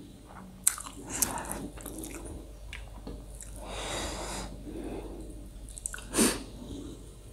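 Close-miked chewing and mouth sounds of someone eating rice with daal and pork by hand, with small wet clicks, a breathy stretch in the middle, and a louder short breathy sound about six seconds in.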